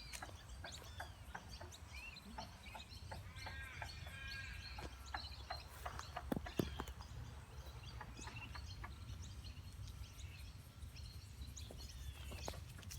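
Assorted lake birds calling, with many short chirps and one repeated pitched call a few seconds in, over a steady low rumble. A pair of sharp knocks about six and a half seconds in is the loudest sound.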